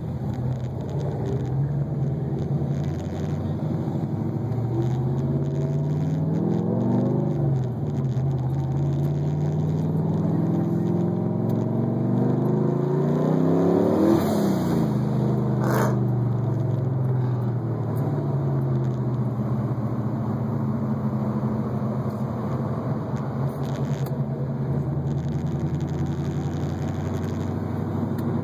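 Turbocharged 6.0-litre V8 in a Camaro IROC-Z, heard from inside the car as it pulls away twice, its pitch rising steadily each time, then easing off and settling into a steady low cruise. A brief sharp tick comes just after the second pull.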